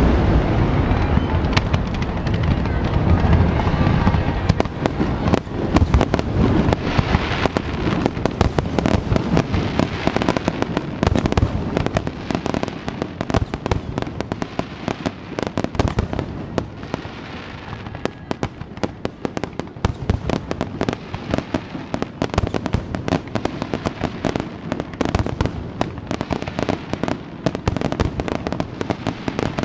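Aerial fireworks display going off continuously. Heavy booming shell bursts come thick in the first half, then give way to a dense, rapid crackle of many small reports.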